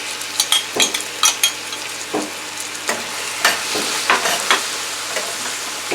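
Vegetables sizzling in an oiled frying pan: a steady frying hiss with irregular sharp clicks and knocks throughout.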